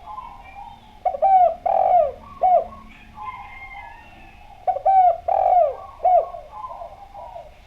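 Spotted dove (derkuku) cooing: two phrases of about four falling coos each, one starting about a second in and another near five seconds, with faint higher chirps between them.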